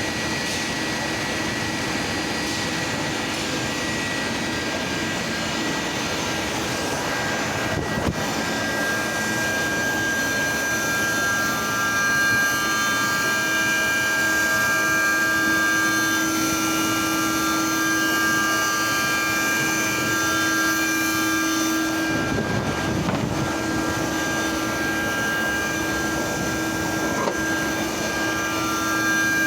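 CNC gear grinding machine running: a steady mechanical hum with several high whining tones that join about ten seconds in, and one sharp click about eight seconds in.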